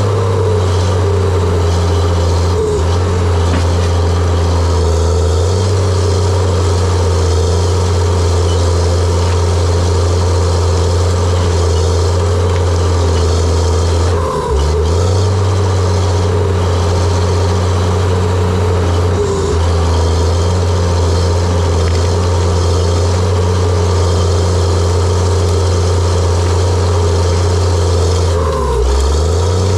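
John Deere 700J-II crawler dozer's diesel engine running hard under steady load. Its low drone dips briefly and recovers about halfway through, and again near the end.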